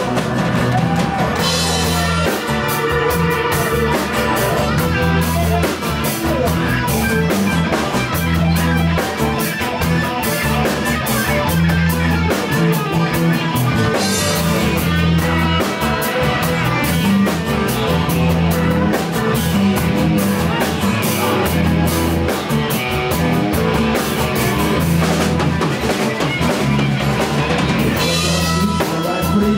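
Rock band playing live without vocals: a drum kit with constant cymbals over a repeating bass line, with electric guitar.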